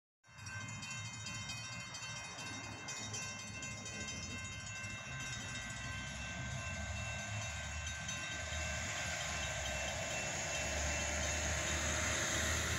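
An Amtrak passenger train approaching from a distance: a low rumble and rail noise that slowly grows louder. A few thin steady high tones sound for the first five seconds and then fade.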